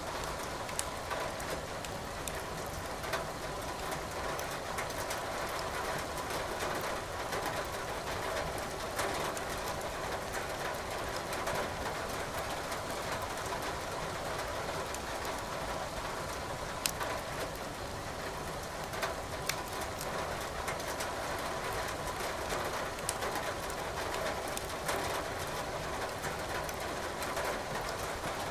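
Steady rain hiss with a wood fire crackling, its logs giving sharp, scattered pops every few seconds.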